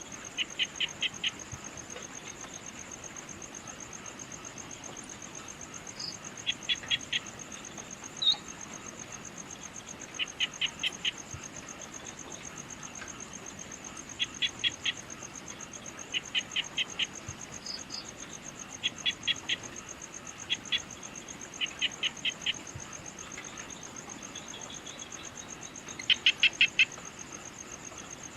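Evening insect chorus, a steady high, rapidly pulsing trill, with a bird repeating a quick call of four or five evenly spaced notes every few seconds. A few single short chirps sound in between.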